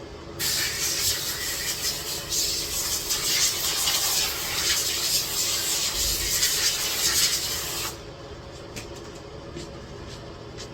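A loud, steady hiss that starts suddenly about half a second in and cuts off sharply about eight seconds in.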